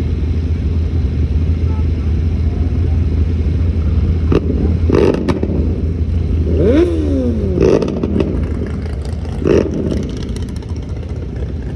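Small-block mini bike engine idling steadily, with a few short louder sounds between about four and ten seconds in, one of them falling in pitch.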